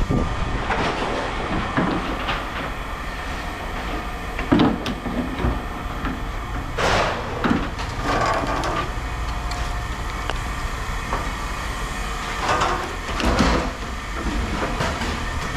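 Scrap metal being handled and tossed into bins, with several separate knocks and clatters over a steady low rumble.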